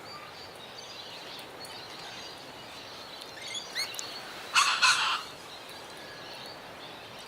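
Wild birds calling from trees: a few short rising chirps about three and a half seconds in, then a louder harsh call in two quick bursts around the five-second mark, over a steady outdoor hiss.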